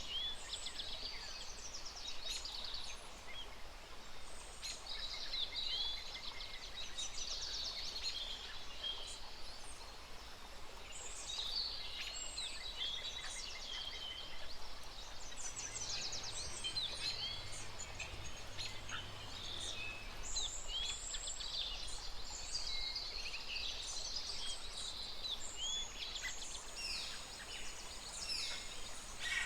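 Many birds chirping and calling at once: a dense chorus of short, high chirps and quick trills, overlapping throughout, over a faint steady background hiss.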